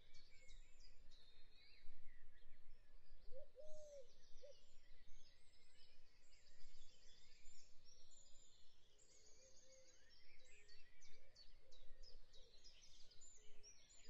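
Faint birds chirping, many short calls and repeated trills, over a low background hiss.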